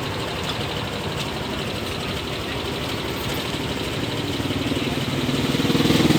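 A motor running with a steady, rapid pulse, growing louder from about four and a half seconds in.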